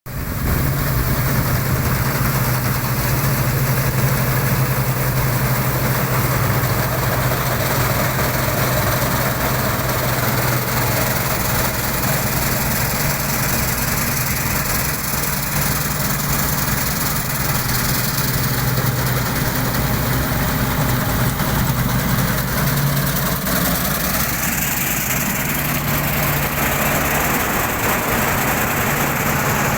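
Harvesting machinery in a wheat field: a heavy engine running steadily under load with a continuous mechanical drone and rushing noise, its pitch shifting slightly about three-quarters of the way through.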